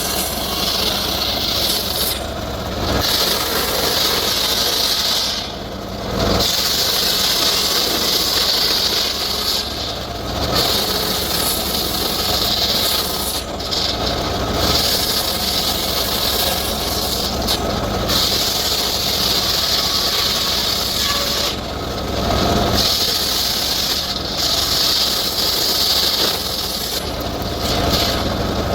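Circular saw cutting teak wood, a steady hissing cut over the running machine, easing briefly a few times.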